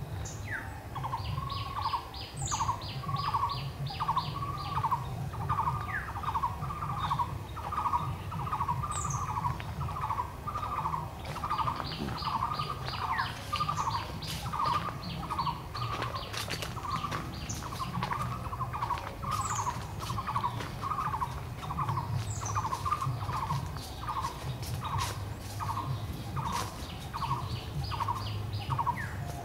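Birds calling in woodland: one repeats a short note steadily, about two a second, while another breaks in now and then with quick runs of high, thin notes.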